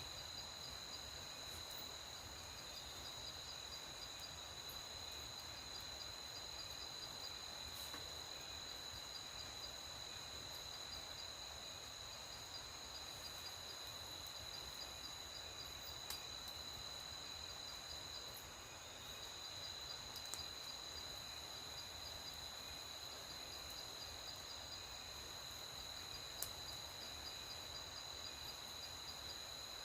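Night insects, crickets, chirring steadily in a high continuous trill with a faster pulsing chirp layered over it, with a few faint sharp clicks.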